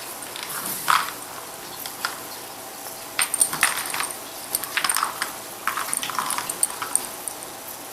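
A cat toy being batted about, giving light jingling and clinking several times.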